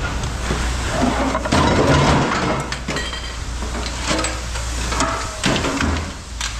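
Scrap metal pieces clanking and knocking as they are handled and pulled apart, some with a brief metallic ring, over a steady low engine hum.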